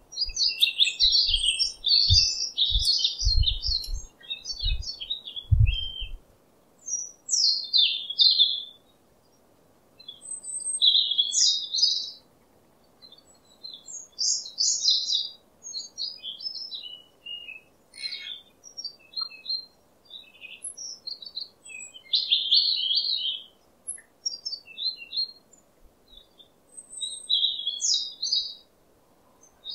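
Wild birds chirping and singing in short, quick high-pitched phrases with pauses between them, more than one bird calling. Low thuds sound during the first six seconds.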